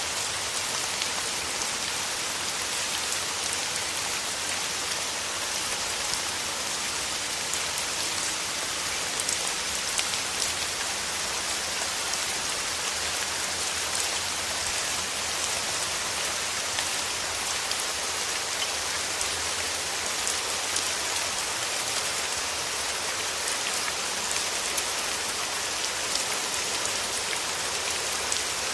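Steady rain: a dense, even hiss of falling drops with scattered sharper ticks of single drops.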